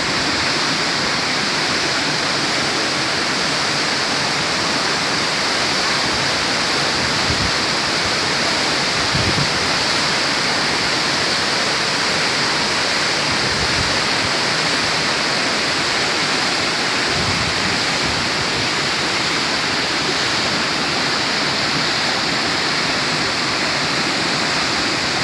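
Waterfall cascading down a granite rock face: a steady, unbroken rush of falling water.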